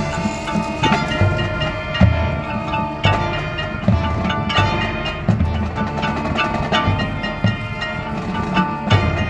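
High school marching band playing: held chords from the winds over percussion, with low drum hits about once a second.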